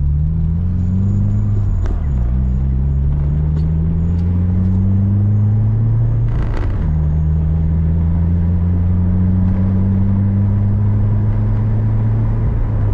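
Turbocharged Subaru flat-four engine heard from inside the cabin, pulling up through the gears. Its pitch climbs and drops at an upshift about two seconds in, climbs again, then drops at a second shift with a brief hiss about six and a half seconds in, and after that rises slowly and steadily.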